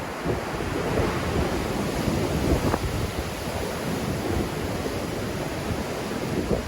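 Black Sea waves breaking and washing in a strong wind, with wind buffeting the microphone. The surge swells about a second in, and a few short splashes stand out in the steady rush.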